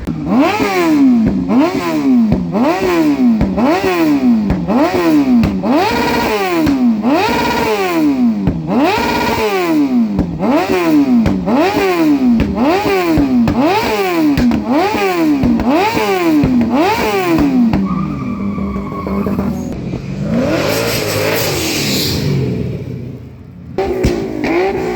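Car engine revved again and again, about one rev a second, each one climbing in pitch and dropping back. Near the end it holds a steady note, there is a burst of noise, and then the revving starts up again.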